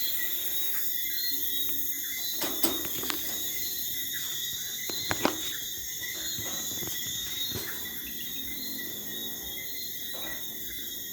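A steady outdoor chorus of crickets and other insects chirring in several high pitches, with a few sharp clicks or knocks a couple of seconds in and again about five seconds in.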